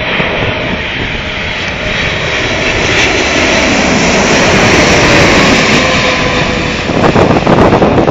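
Jet engines of a landing Boeing 747-8 freighter, its four GEnx turbofans growing louder as it comes close and passes, with a faint falling whine. From about seven seconds in, a rough, gusty rumble of wind on the microphone joins it.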